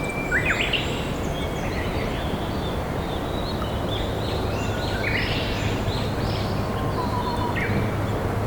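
Steady rush of a flowing river, with wild songbirds singing over it: short chirps and whistled phrases, several at once, scattered throughout.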